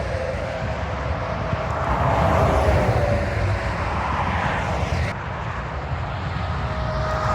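Interstate traffic with tractor-trailers passing: a steady rush of tyre and engine noise with a low rumble and a faint tyre whine, swelling and easing as trucks go by.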